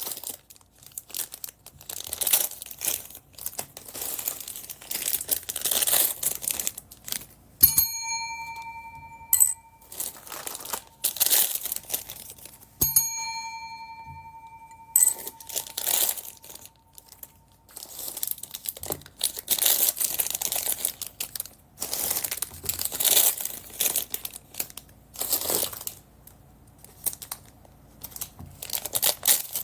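Small plastic bags of beads crinkling and rustling as they are handled and opened. Twice, about eight and thirteen seconds in, a bell-like ding rings out and fades over a couple of seconds.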